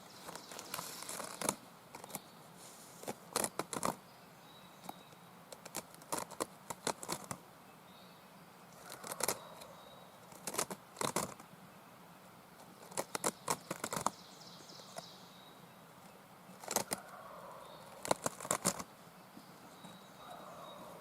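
Footsteps crunching through dry leaf litter on the forest floor, in short bunches of a few steps with pauses between.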